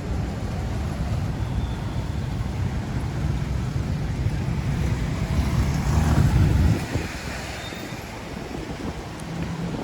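Urban traffic noise with wind on the microphone: a steady low rumble that builds to its loudest about six seconds in, then drops away suddenly near seven seconds.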